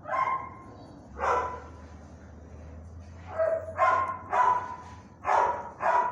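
A dog barking: about seven sharp barks, one right at the start, one about a second later, then a quick run of barks in the second half.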